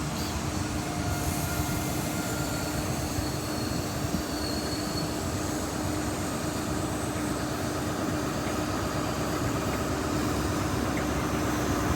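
High-speed train (InterCity 125 set with Class 43 power cars) moving past, a steady rumble of wheels and engines that builds slightly towards the end.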